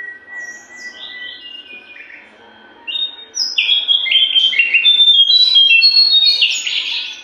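Jongkangan songbird singing: faint thin whistles at first, then from about three seconds in a loud, fast run of varied high notes that stops just before the end. This is the bird in full, strong song.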